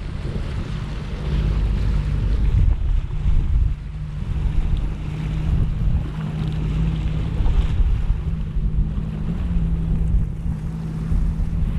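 Jet ski engine running steadily underway, with water rushing past the hull and wind buffeting the microphone.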